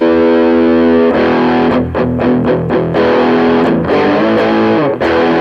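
Distorted electric guitar played through a Mesa Boogie Recto-Verb 25 tube combo on its distortion channel, switched to Vintage mode: a held chord ringing out for about a second, a run of short choppy chords, then another held chord near the end.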